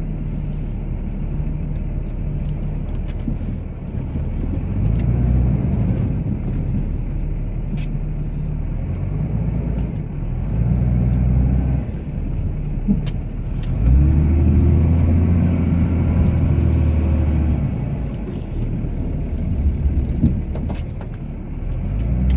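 Cummins inline-six turbodiesel of a Ram pickup, heard from inside the cab, running under load while plowing snow, its revs rising and falling repeatedly and loudest in a rise and drop about two-thirds of the way through. A few sharp clicks and knocks sound over it.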